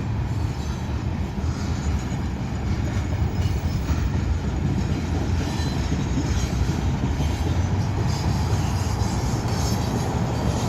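A train going by, a steady low rumble with a constant engine hum underneath.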